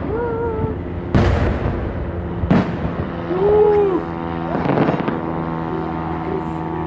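Aerial fireworks bursting: three sharp booms about a second and a half to two seconds apart, over a steady background of distant blasts.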